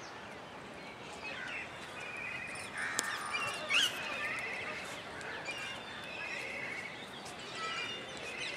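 Several birds chirping and calling, with repeated rattling trills and a short sweeping call just before the middle, over steady open-air background noise.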